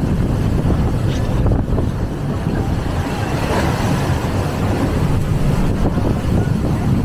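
Strong storm wind buffeting the microphone: a loud, rough, unbroken rumble.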